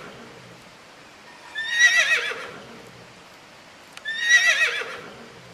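Horse neighing twice: two wavering, falling whinnies about two and a half seconds apart.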